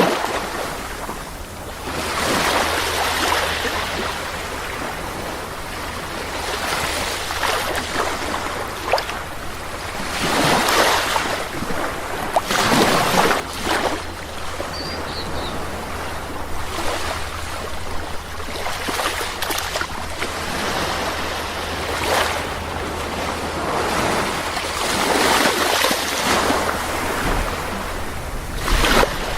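Sea waves breaking and washing onto a beach, surging and fading every few seconds, over a steady low rumble.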